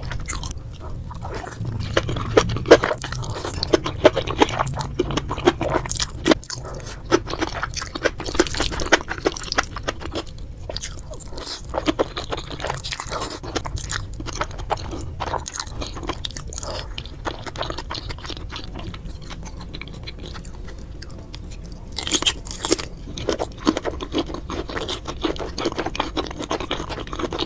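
Close-miked mukbang eating: chewing and wet, crunchy bites of saucy black bean noodles, with many small clicks and smacks. The eating thins out for a few seconds after the middle and grows busier again near the end.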